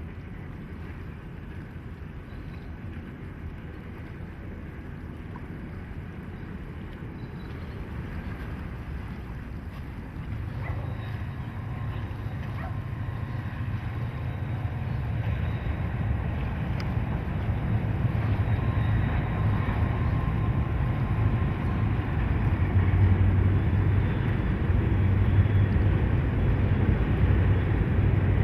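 Diesel locomotive engine rumbling as it approaches, growing steadily louder, its low hum strengthening about a third of the way in, with wind on the microphone.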